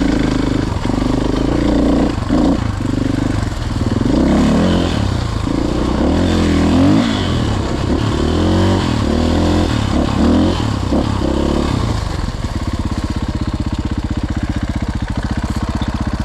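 Dirt bike engine close by, its revs rising and falling unevenly, then settling to a steady idle for the last few seconds.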